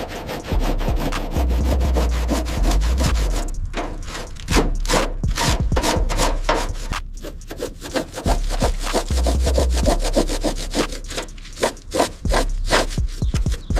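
Rapid, irregular back-and-forth rubbing strokes of hand scrubbing on a surface, with occasional dull low thumps of handling.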